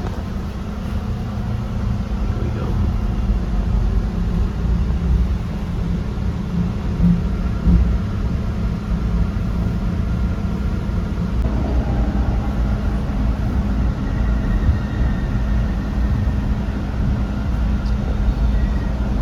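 MBTA Red Line subway car running between stations, heard from inside: a steady low rumble of wheels on rail, with a faint whine above it and a tone rising near the end.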